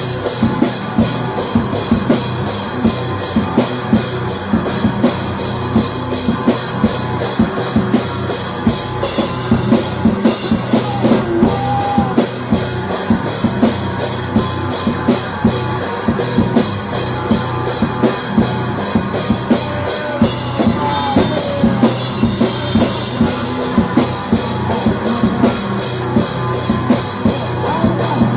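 Rock music with a drum kit keeping a steady beat, with no singing.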